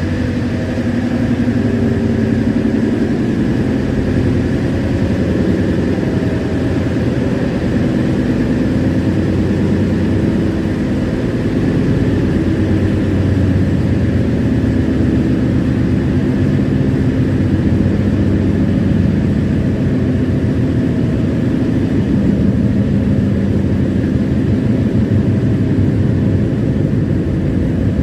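Passenger train running, a steady low rumble with no breaks.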